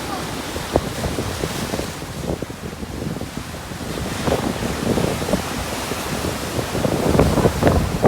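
Storm waves on the Black Sea breaking and washing on the shore, with wind buffeting the microphone; the surf swells louder near the end.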